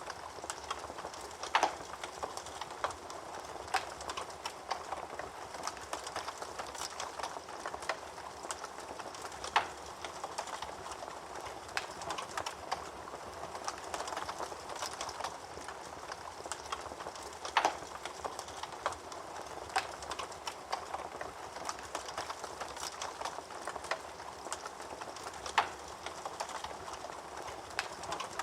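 Wood fire burning in a fireplace: a steady soft hiss with frequent small crackles and a few louder, sharper pops.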